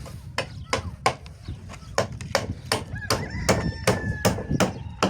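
Repeated sharp chopping or knocking strokes at an even pace, a little under three a second.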